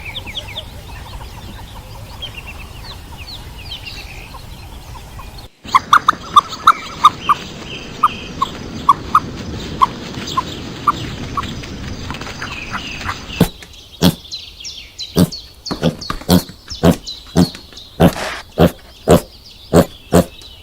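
Animal calls in three short clips: faint high chirps over a steady background, then a run of short repeated calls, then a series of short sharp calls coming about one or two a second.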